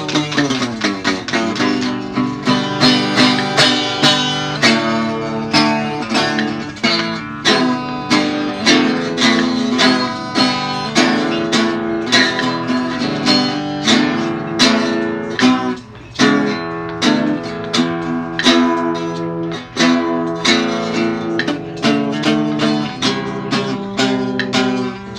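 Acoustic guitar music: fast plucked and strummed notes in a flamenco-like style, with a brief break about two-thirds of the way through.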